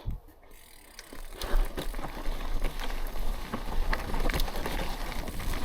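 Mountain bike rolling fast down a steep dirt slope, starting about a second in: tyres on loose dirt and the bike rattling, with many sharp clicks over a low rumble.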